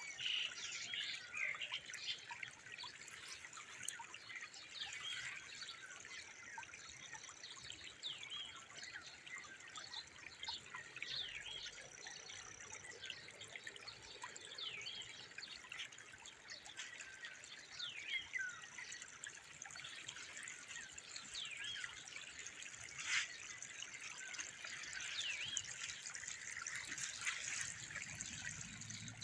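Many small birds chirping and twittering in quick, overlapping calls over a steady hiss like running water, with one sharp click about three-quarters of the way through.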